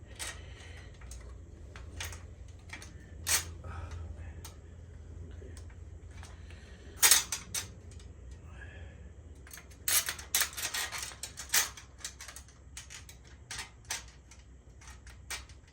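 Scattered metallic clicks and clanks of bicycle parts and hand tools being handled, with a quick run of clatter about ten seconds in.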